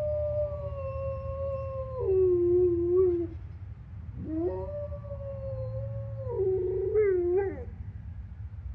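A dog howling: two long howls, each held on one pitch and then stepping down lower before breaking off. The first ends about three seconds in, and the second starts about a second later.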